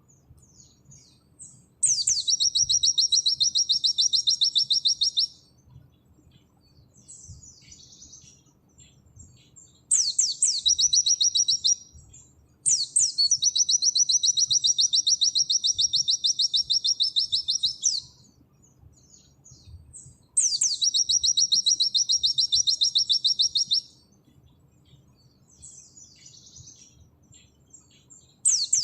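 Pleci (white-eye) singing its 'nembak' song: long bouts of very fast, high, rattling trills, each a few seconds long and opening with a sharp sweeping note. There are four bouts, with soft scattered chips in the gaps, and a fifth bout begins right at the end.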